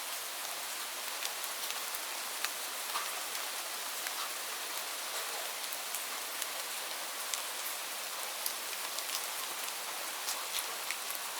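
Steady rain falling, a continuous hiss with many separate drops ticking sharply against a surface at irregular moments.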